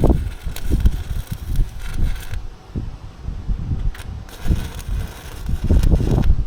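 Wind buffeting the microphone in irregular gusts, with a faint hiss behind it that drops out for a couple of seconds midway.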